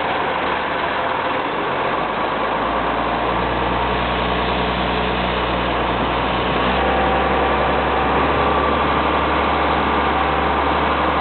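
Case IH MX110 tractor's diesel engine running steadily, getting a little louder about seven seconds in.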